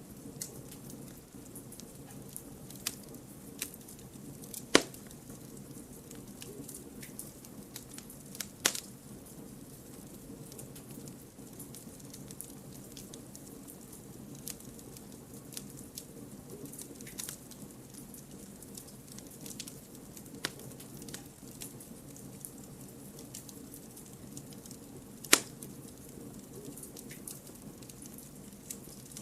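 Wood fire burning: a steady low rush of flames with scattered crackles and sharp pops from the firewood, three of them louder, at about five, nine and twenty-five seconds in.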